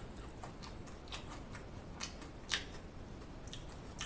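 Close-miked, mouth-closed chewing of loaded tortilla-chip nachos: soft, irregular crunches and wet mouth clicks, roughly one every half second to second.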